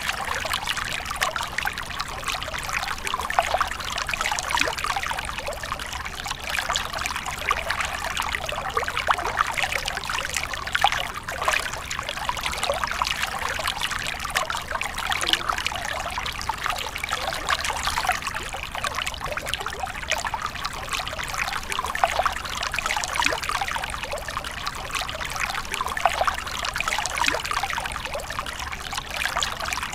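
Running water trickling and splashing steadily, a continuous rush full of small splashes and gurgles.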